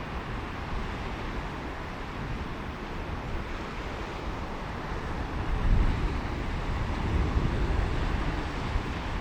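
Surf washing onto a beach, a steady rushing hiss with a deeper rumble that swells a little past halfway through, with wind on the microphone.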